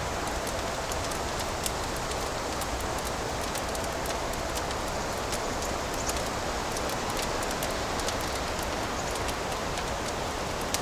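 Wood fire crackling in a fireplace: a steady hiss dotted with many small, sharp pops and snaps at irregular moments.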